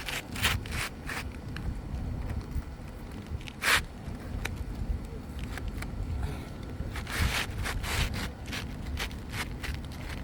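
A run of short scrapes and rustles, the loudest about four seconds in and a cluster around seven to eight seconds, over a low steady rumble.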